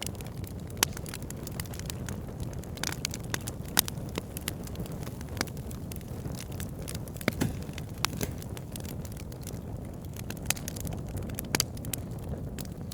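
Wood fire burning with a steady low rumble, logs crackling and popping at irregular moments, with a few sharp louder pops.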